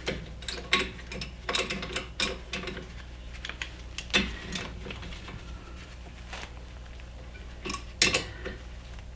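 Metal hand tools clinking and clicking against a car's brake caliper as a socket and crescent wrench are worked on the caliper bolts: irregular sharp taps, several in the first couple of seconds, one about four seconds in and a louder pair about eight seconds in.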